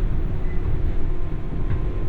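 JR West 201 series electric train heard from inside the motor car (Moha 201) while running: a steady low rumble of wheels on rail with a faint steady hum, and a short click near the end.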